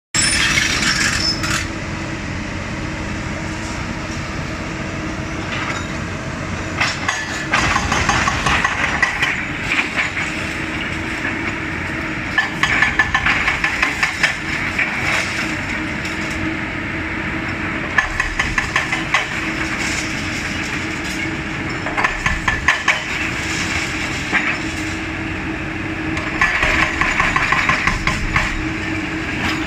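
CAT 320D L hydraulic excavator's diesel engine running steadily while the machine tears down a building, with repeated bursts of cracking, crunching and clattering as walls and debris break and fall.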